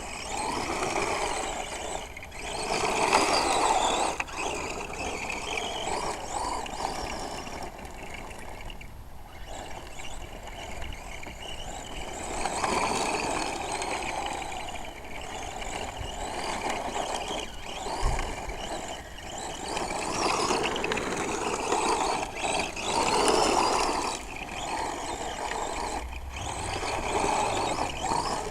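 Radio-controlled truck's motor and gears whining as it is driven, the pitch rising and falling repeatedly as it speeds up and slows.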